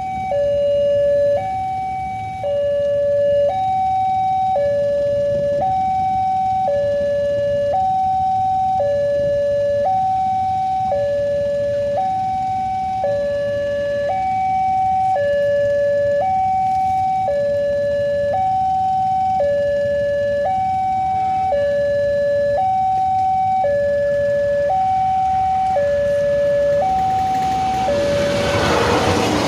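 Electronic two-tone warning alarm of a railway level crossing, switching between a lower and a higher tone about once a second. Near the end the noise of an approaching train swells up under it.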